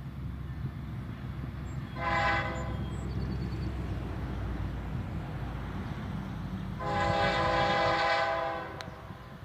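Diesel freight locomotive's air horn sounding a short blast about two seconds in and a longer blast near the end, over the steady low rumble of a freight train.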